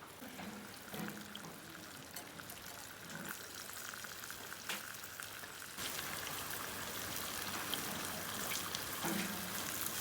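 Food sizzling in a pan over a campfire, with scattered small pops; the sizzle grows louder and brighter about six seconds in.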